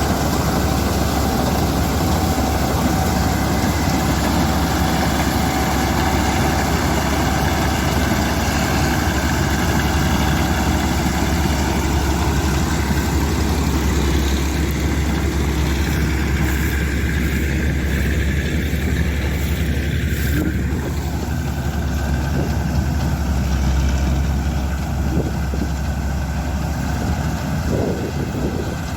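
Combine harvester engine running steadily with a deep, even drone.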